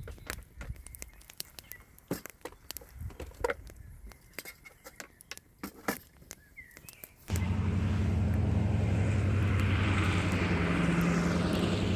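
Scattered light clicks and knocks of camp handling over a quiet outdoor background, with a bird chirping briefly. About seven seconds in, the sound cuts abruptly to a loud, steady rushing noise with a low hum.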